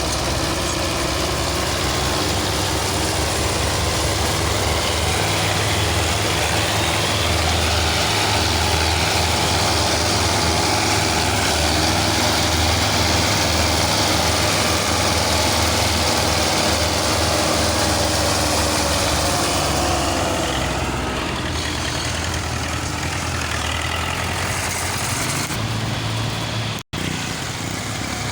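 Tractor diesel engine running steadily with a deep, even rumble, which drops out for an instant near the end.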